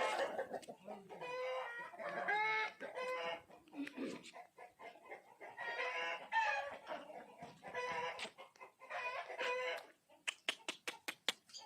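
Aseel chickens clucking and calling again and again, pitched calls that bend up and down. Near the end comes a quick run of about eight sharp clicks.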